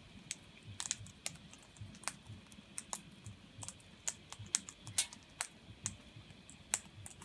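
Australian king parrots feeding: irregular sharp clicks and cracks of their beaks on seed and the feeder, a few a second.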